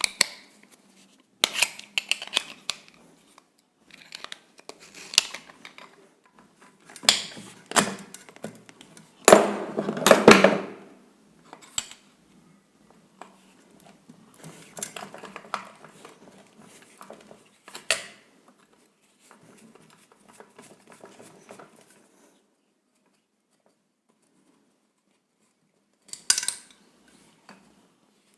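Intermittent clicks, clinks and scraping of metal tools and small parts being handled while working on a washing-machine motor. There is a longer, louder scrape about ten seconds in, a few seconds of quiet, then another clatter near the end.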